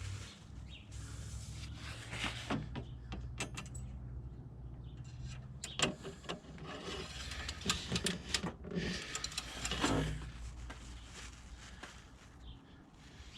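Handling noises of an engine oil check: a metal dipstick scraping and clicking in its tube as it is pulled, wiped with a rag and pushed back, with scattered clicks and rubbing over a low steady hum.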